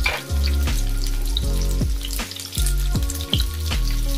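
Chunks of onion frying and sizzling in hot mustard oil in a nonstick wok, with frequent light ticks as a silicone spatula stirs them. Background music with low held notes plays under it.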